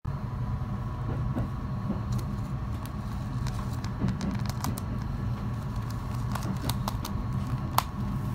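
Steady rumble of a JR commuter train running, heard inside the carriage just above the bogie, with a faint steady whine. Over it, light crackles and ticks of plastic string being untied from a paper-wrapped bento box, with one sharper click near the end.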